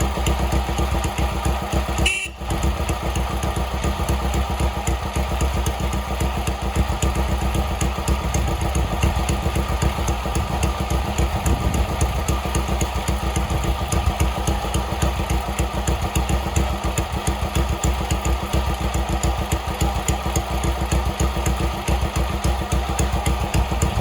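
1964 Honda CL72 Scrambler's parallel-twin engine idling steadily, warming up from a cold start without choke. The sound breaks off briefly about two seconds in.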